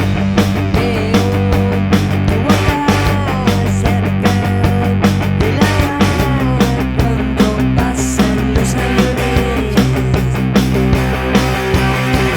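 Rock band playing an instrumental passage on electric guitar, bass and drums, with a steady beat. The bass note changes about halfway through.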